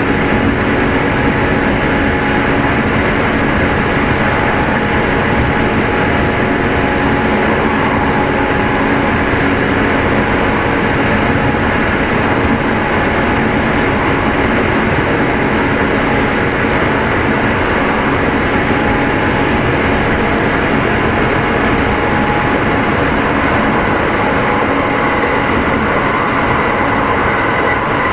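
Kintetsu 2610 series electric train running at steady speed, heard in motor car Mo2616: continuous wheel-on-rail rumble with a steady motor and gear whine.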